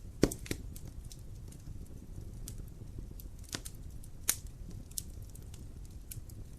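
Dry firewood burning in a fireplace: a steady low rumble of flames with scattered sharp crackles and pops, the loudest pops just after the start and about four seconds in.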